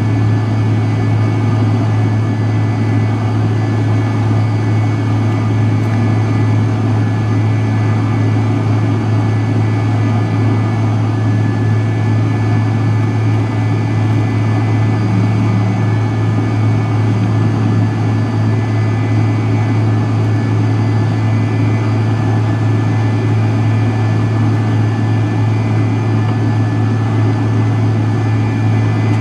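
Steady drone of the McDonnell Douglas MD-83's tail-mounted Pratt & Whitney JT8D turbofans inside the rear cabin, a strong low hum with a few fixed whining tones above it and no change in pitch or level.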